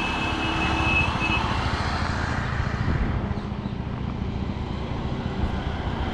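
Road traffic: a motor vehicle passing close, loudest in the first two seconds and then fading, with a thin steady high whine during the first second and a half.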